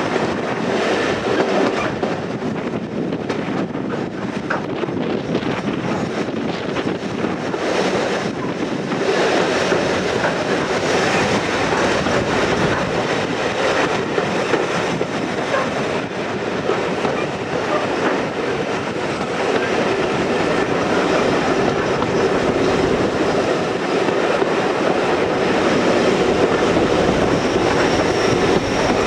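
Heritage railway train running along the line, heard from on board: the steady rumble of carriage wheels on the rails, which grows a little louder about nine seconds in.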